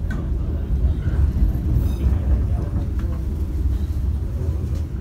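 Kereta Api Bengawan passenger train running, a steady low rumble that stays even throughout.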